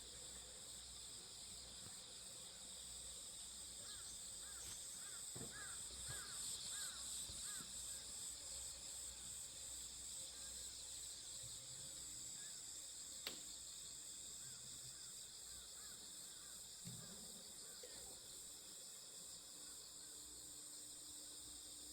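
Steady chorus of crickets and other insects. A bird gives a quick series of about seven short calls a few seconds in, and there is a single sharp click about halfway through.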